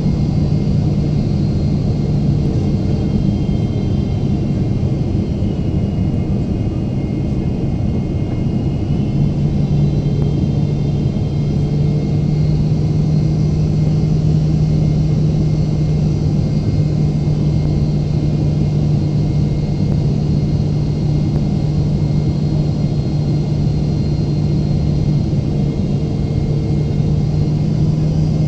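Steady jet engine and airflow rumble heard inside the cabin of a Boeing 777-300ER in flight, with a constant low hum.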